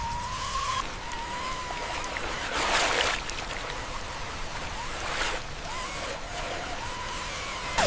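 RC truck's electric motor whining, its pitch wavering as the throttle changes, while the tyres churn and splash through mud and water, with two louder splashes about three and five seconds in.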